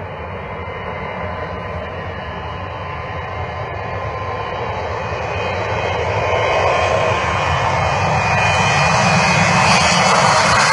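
An airplane's engine noise growing steadily louder as it approaches.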